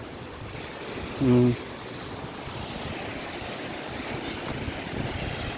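Waterfall rushing steadily. A short vocal sound cuts in briefly about a second in.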